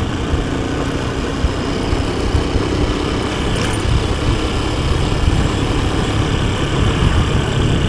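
Steady engine and road noise of a motorcycle being ridden.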